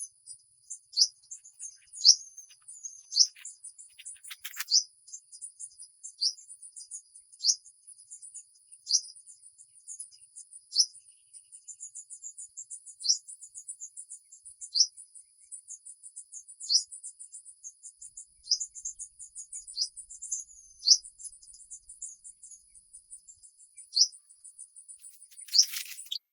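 Insect chorus: a steady high-pitched trill, with a short chirp repeating every one to two seconds over it. A brief rustle comes about four seconds in and again near the end.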